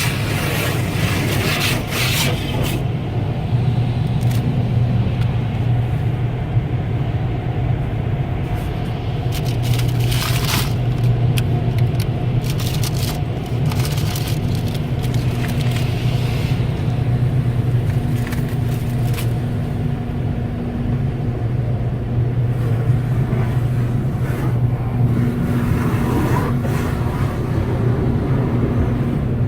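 Inside a car going through an automatic car wash: a steady low rumble from the wash machinery, with irregular bursts of water spray and brushes scrubbing against the car.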